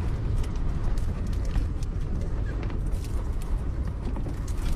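Strong wind buffeting a small camper, heard from inside: a steady low rumble with scattered light clicks and knocks as the rocking body shakes.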